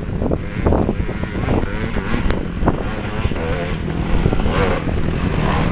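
Dirt bike engine running, with several sharp knocks and clatter over it; a voice briefly in the background.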